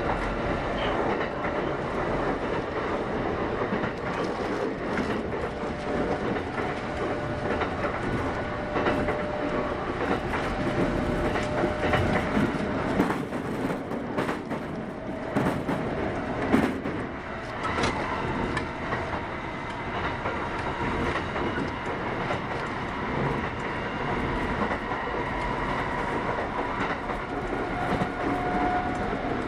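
Kintetsu 8810 series electric train running on the line, with steady rolling noise and faint steady tones. A cluster of sharp clicks comes about halfway through.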